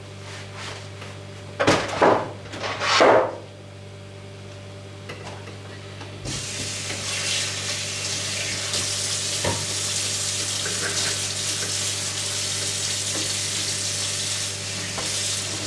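Kitchen tap turned on about six seconds in, water running steadily into the sink. Before that come a few loud clattering knocks, over a steady low hum.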